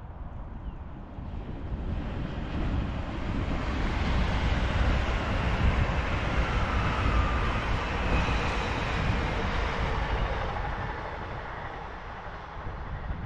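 High-speed passenger train passing at speed on an electrified main line: a steady rushing noise that builds from about a second in, is loudest midway, and fades away near the end.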